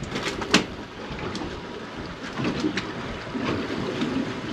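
Two sharp knocks about a third of a second apart near the start, then uneven splashing and handling noises on a small boat.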